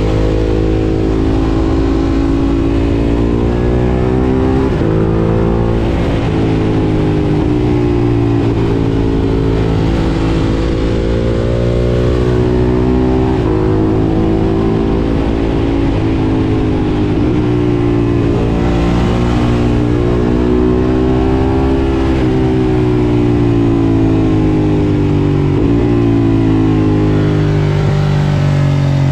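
Ducati Monster 1200 S 1198 cc L-twin engine through an Akrapovič exhaust, heard from on board while riding. It pulls up through the revs, drops sharply at each gear change several times over, and later winds down as the bike slows.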